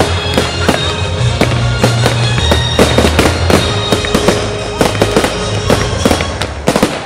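Fireworks exploding in a rapid string of sharp bangs and crackles, several a second, with music and its steady bass underneath.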